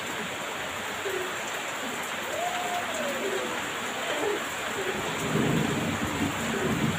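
Heavy rain pouring steadily, with a rumble of thunder swelling up about five seconds in.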